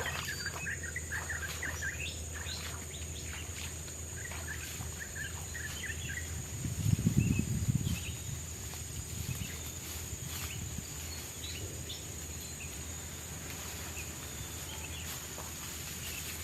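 Tropical forest ambience: a steady high-pitched insect drone with scattered short bird chirps. About seven seconds in, a brief low thud or rumble lasting about a second is the loudest sound.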